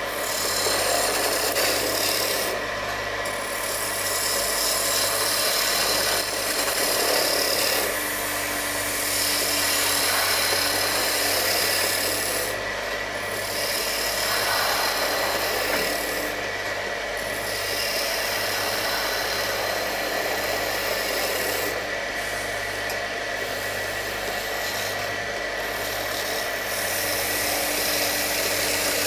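Wood lathe running while a cutting tool shaves a spinning wooden shovel handle. A steady whine runs under rasping cutting noise that eases off briefly several times.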